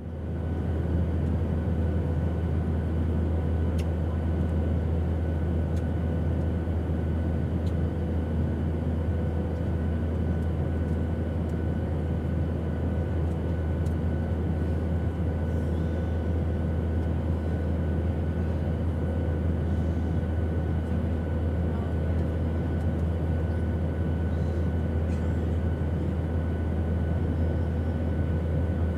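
Airplane engine drone: a steady, unchanging noise with a heavy low rumble and a few faint steady tones. It swells up quickly at the start.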